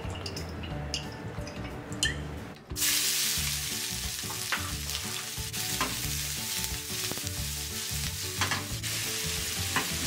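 Sliced onions frying in hot olive oil in a stainless steel frying pan: the sizzle starts suddenly about three seconds in and then carries on steadily, with a few sharp knocks as the pan is tossed and stirred.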